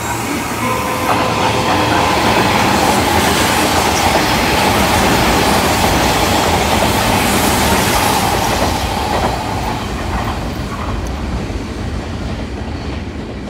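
Hanshin electric commuter train running close past along the platform: wheel and motor noise with a steady high whine, loudest for several seconds and then fading as the train goes by.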